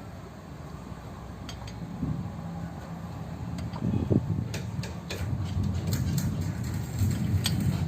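A steady low engine-like hum runs throughout, with sharp metallic clinks and taps of tools from about four seconds in.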